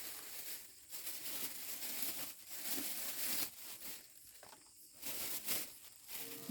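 Irregular crinkling and rustling, coming in short surges, from something being handled.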